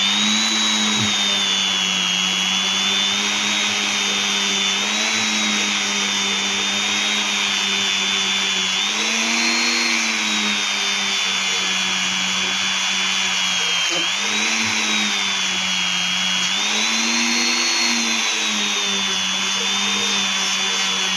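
Small electric power tool motor running continuously on a stone, a steady whine whose pitch rises briefly about four times as the load eases.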